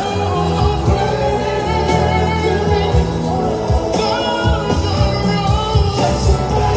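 Live R&B vocal group singing held harmonies over band accompaniment, heard in a large hall.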